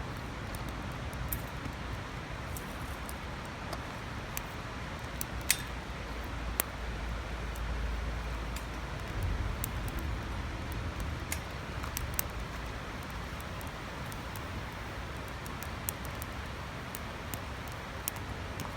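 Small twigs snapping and crackling: scattered sharp clicks at irregular intervals, one louder snap about five and a half seconds in, over a steady low outdoor rumble.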